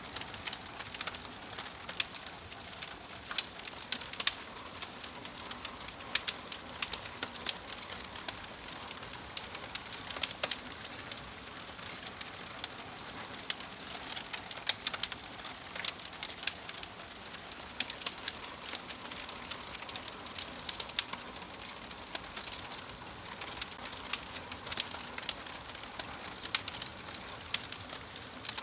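Wood fire in a fireplace crackling, with frequent irregular sharp pops and snaps over a steady soft hiss.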